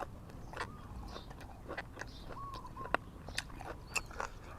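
Close-up mouth sounds of someone eating: wet chewing with irregular crunchy clicks and smacks. A few faint short chirps sound behind it.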